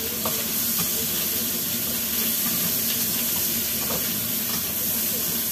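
Meat sizzling steadily as it is stir-fried in a non-stick wok over a gas flame, with a few light taps of the spatula. A steady low hum runs underneath.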